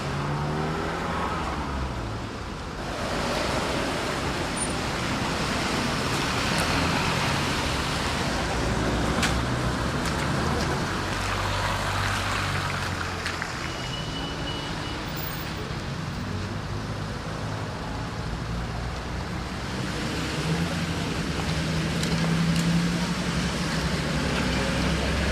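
Road traffic: cars and other motor vehicles driving past on a city street, their engine and tyre noise swelling and fading as each one passes.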